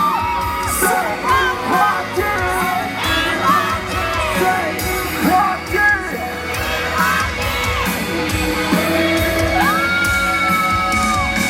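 Live pop band playing a song's instrumental opening through a loud PA, with fans screaming and whooping over the beat. Near the end a high voice holds one long note for about a second and a half.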